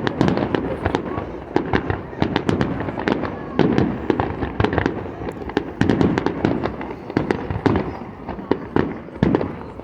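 Aerial fireworks exploding in quick, irregular succession, sharp bangs and crackling reports mixed with the low rumble of bursting shells.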